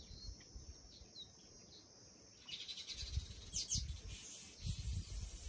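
Faint outdoor ambience of small birds chirping in short calls. About two and a half seconds in, a low rumble and a high hiss join them.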